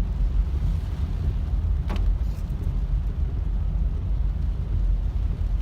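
Car driving on a rain-soaked road, heard from inside the cabin: a steady low rumble of engine and tyres, with one short click about two seconds in.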